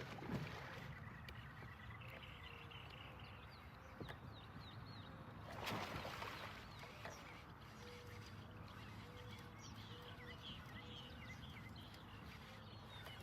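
Small birds chirping and calling in short repeated notes over a faint low hum, with a brief rush of noise about six seconds in.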